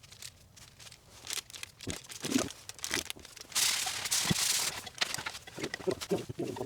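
Plastic packaging of a tteokbokki meal kit being handled and opened: crinkling and scattered clicks, with a loud tearing hiss about three and a half seconds in that lasts about a second.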